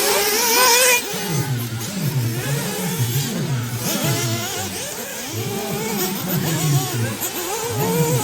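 Several 1/8-scale nitro off-road RC buggies racing: their small two-stroke glow engines rev up and down in overlapping whines as the cars accelerate and brake around the track.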